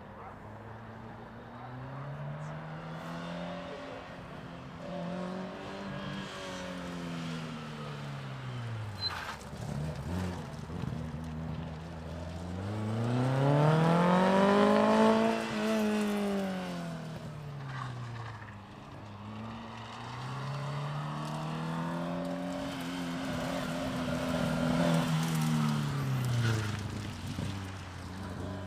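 Lotus Elan's twin-cam four-cylinder engine revving up and falling back again and again as the car is driven around a gymkhana course. The rises and falls come in several sweeps, and the loudest and highest one is about halfway through, as the car comes closest.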